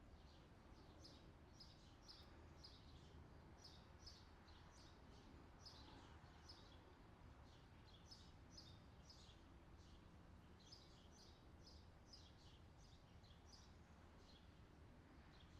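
Faint outdoor summer ambience: small birds chirping in many quick, short, high calls over a low, steady background noise.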